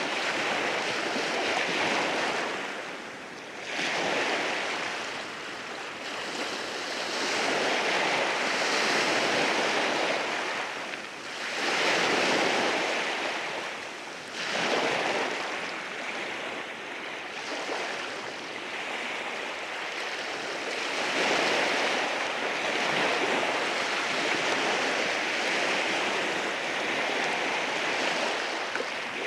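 Sea waves breaking and washing over rocks at the shore, a continuous rushing surf that swells and eases every few seconds.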